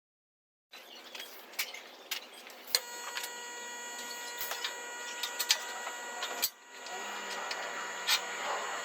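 Metalworking power tool in use on iron: a steady machine hum with several even tones, scattered sharp clicks and crackle, starting after a moment of silence and briefly dropping out just past the middle.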